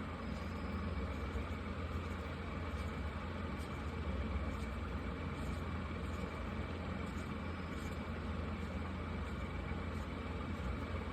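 A steady low rumble with an even hiss over it, unchanging throughout, with a faint steady whine above.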